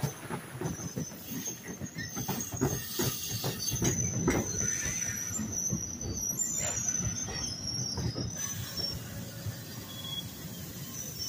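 NJ Transit bilevel passenger coaches rolling past as the train slows into the station, the wheels clacking and knocking over the rail joints. A thin, high-pitched wheel squeal rides over the rumble. The knocking is densest in the first half and thins out as the train slows.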